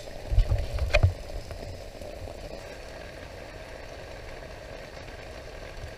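Steady hiss of heavy rain on a rooftop tent's fabric. In the first second or so there are a few low thumps and one sharp knock as someone climbs the ladder into the tent.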